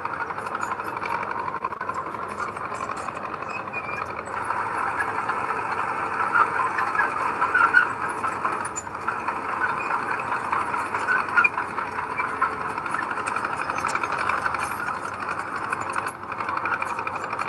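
Diesel engine of heavy earthmoving machinery running steadily, with a fine rattle and scattered clicks. It grows louder from about six to eight seconds in and dips briefly near the end.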